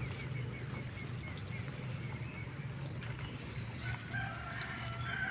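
Poultry calling: a run of quick, evenly spaced high chirps in the first second, then a short stretch of calls about four seconds in, over a steady low hum.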